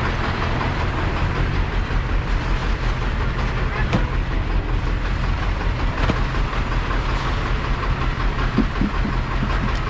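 Farm vehicle running: a steady engine drone with rattling and a few sharp knocks.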